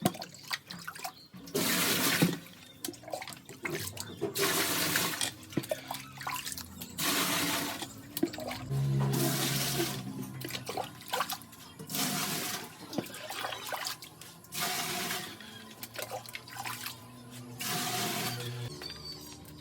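Water gushing and splashing in repeated bursts of about a second, every two to three seconds, with a low steady hum at times.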